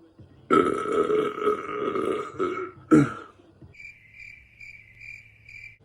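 A man belching loudly for about two seconds, then a short second belch or cough about three seconds in. After that comes a faint high chirping tone that pulses about twice a second.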